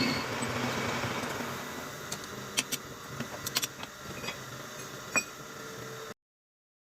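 Workshop noise: a running machine fading away, then a few light metal clicks and knocks, before the sound cuts off abruptly near the end.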